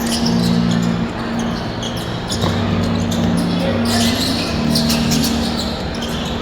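Basketball game noise in a hall: a ball bouncing on the court and sharp shoe squeaks and knocks, over low held tones that change pitch every second or so.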